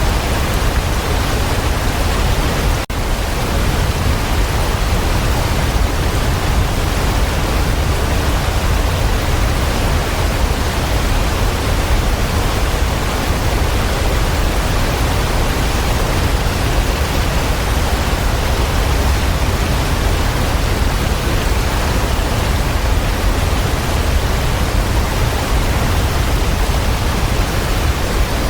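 Waterfall, a steady full rush of falling water with a heavy low rumble, dipping for an instant about three seconds in.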